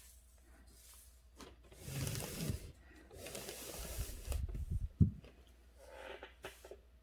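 Rubbing and scraping on paper at a writing desk, in two stretches, then a sharp knock about five seconds in.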